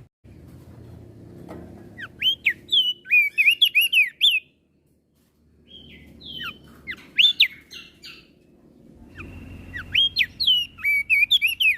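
Crested white-eye (opior jambul) singing: three bursts of quick, sweeping whistled notes, each lasting about two seconds, with short pauses between them.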